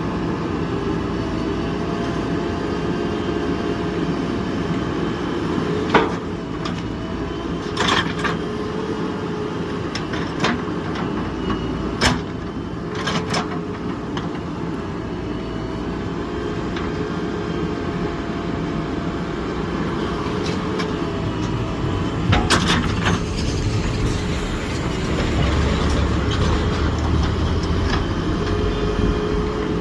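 Diesel engine of a JCB backhoe loader running steadily under load, with several sharp clanks and knocks of the bucket and arm as it digs and loads soil.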